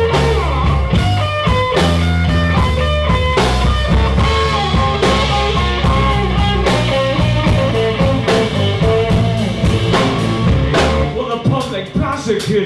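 Live blues band playing an instrumental passage: guitar lines over bass and drum kit. About eleven seconds in the bass drops out and the band thins to a quieter, sparser backing.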